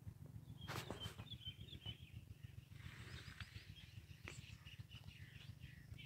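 Small birds chirping faintly in short, high chirps, a cluster about a second and a half in and more scattered through the second half, over a low rumble on the microphone, with a few soft knocks about a second in and again around four seconds in.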